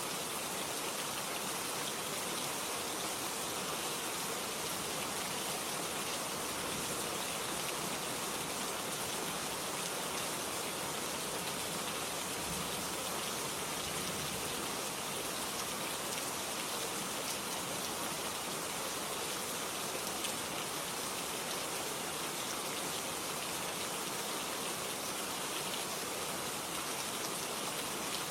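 Steady rain falling, an even hiss with fine patter of drops, unchanging throughout.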